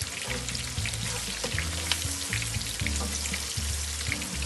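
Browned onions, green chillies and spice sizzling in hot oil in a stainless steel pan, stirred with a metal spatula that clicks and scrapes against the pan now and then.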